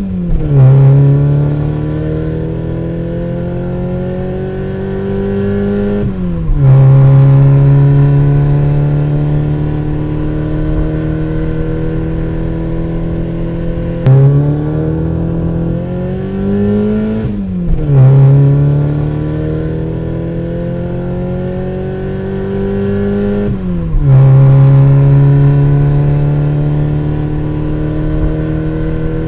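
Motor vehicle engine pulling through the gears: its pitch climbs steadily, then drops sharply at each gear change, about five times.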